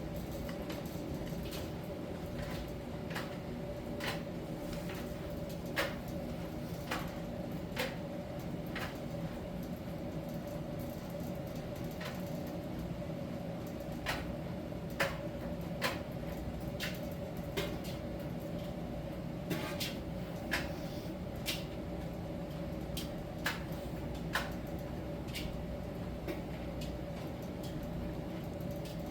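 Miele T1 heat-pump tumble dryer running in its drying phase: a steady machine hum with a clear mid-pitched tone, with irregular light clicks and knocks from laundry tumbling in the turning drum.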